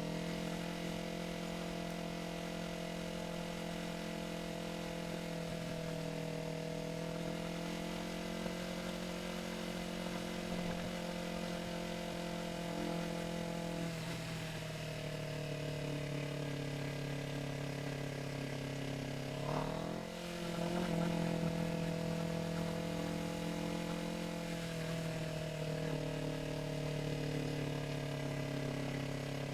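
Yamaha R3's parallel-twin engine running at steady cruising revs during a ride. About twenty seconds in, the revs climb briefly, drop for a moment, and then settle again.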